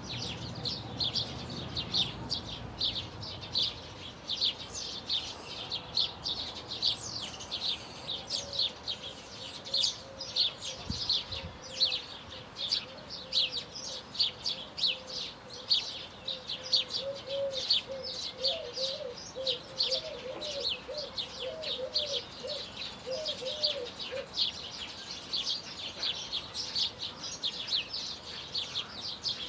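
A dense chorus of many small birds chirping and singing at once, rapid high chirps running without a break. A fainter, lower wavering call repeats through the middle stretch.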